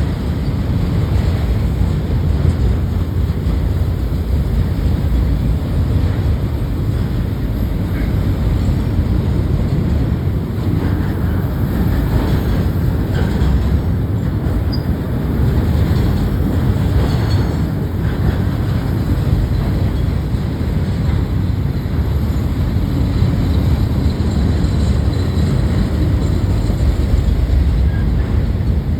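Freight train cars rolling past: a steady, loud rumble of steel wheels on rail.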